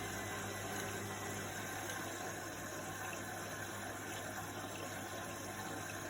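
Washing machine running on a wash cycle: water swishing over a steady low motor hum, even throughout.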